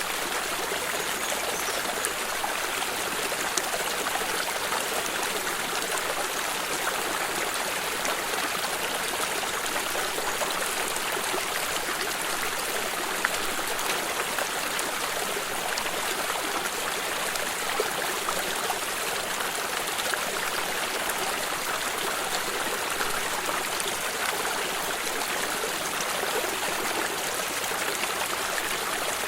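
A small stream flowing and trickling steadily, with tiny splashes and drips scattered through it.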